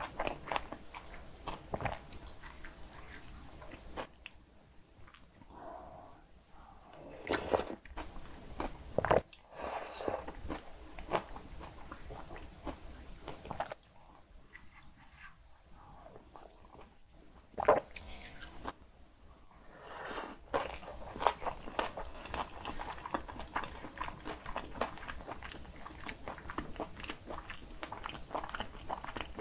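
Close-miked mouth sounds of eating bibimbap mixed with seasoned raw radish and cockles: wet chewing and crunching, with a few sharper clicks now and then.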